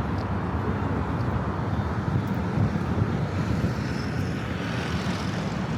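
Steady low rumble of city traffic, an even wash of street noise with no single event standing out.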